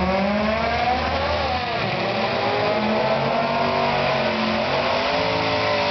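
Drag cars' engines idling and revving, several engine notes layered and slowly rising and falling in pitch.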